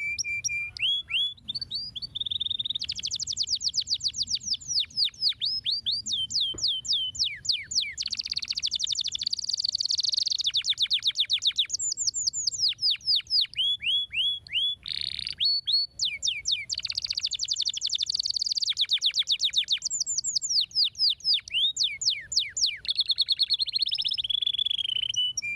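Domestic canary singing a long, continuous song of fast trills and rolls, each made of rapidly repeated sweeping notes, with only brief pauses between phrases.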